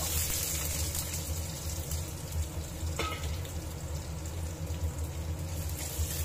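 Sliced onion dropped into hot oil with tempering seeds and dal in a steel kadai, the oil sizzling with a steady frying hiss that jumps up as the onion goes in. A single short clink about halfway through.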